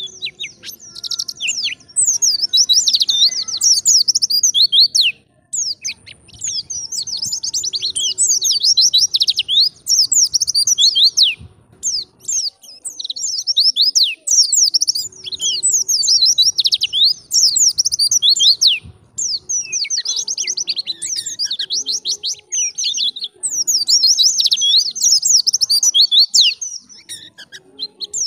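A white-eye (pleci) singing its fast, wild-type chattering song: long runs of quick, high, descending notes, broken by short pauses a few times.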